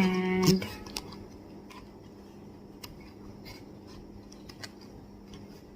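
Scattered light clicks and taps of a small cardboard serum carton being handled and worked open, over a faint steady hum.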